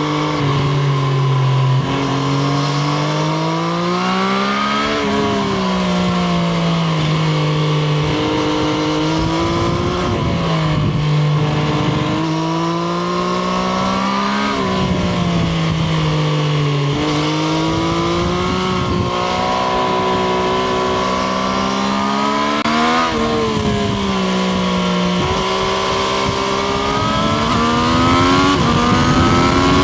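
Triumph Street Triple RS's 765 cc inline-three engine heard onboard while riding, its pitch climbing under throttle and then dropping off several times, with steady stretches in between.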